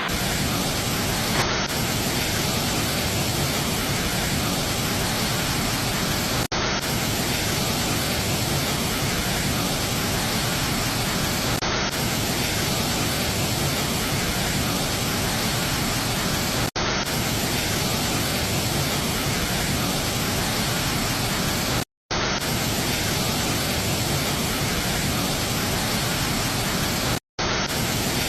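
Steady roar of a waterfall, an even rushing noise, broken by a few brief silent gaps where the shots are joined.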